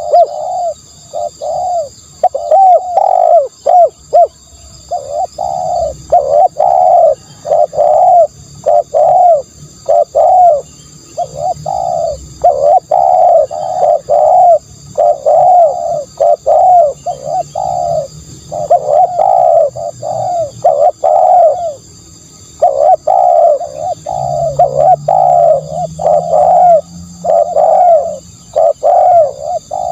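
Spotted dove cooing over and over, phrase after phrase with only brief pauses, against a faint steady high whine.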